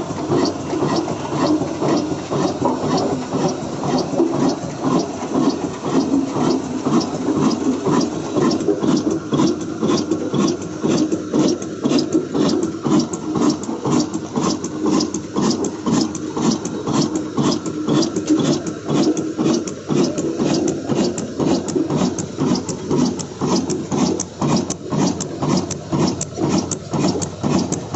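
Old black desi diesel engine running steadily, with an even, regular beat of about four strokes a second.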